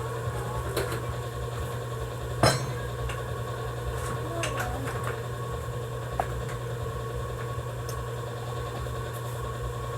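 A sharp metallic knock about two and a half seconds in, then a few lighter clicks, over a steady low hum.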